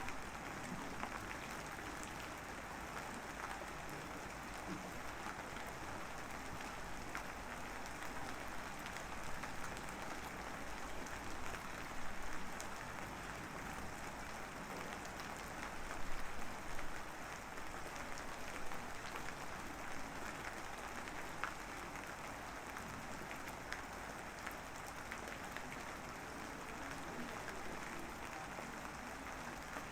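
Steady rain falling, an even hiss dotted with fine drop ticks, swelling briefly a few times near the middle.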